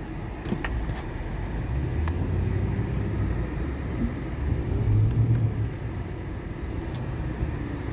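Pickup truck engine running while plowing snow, heard from inside the cab as a low rumble that swells and eases a couple of times.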